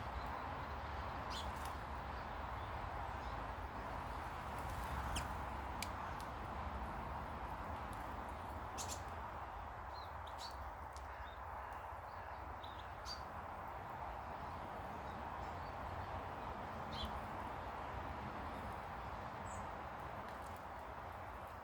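Garden birds giving scattered short chirps every second or two over a steady background hiss and low rumble.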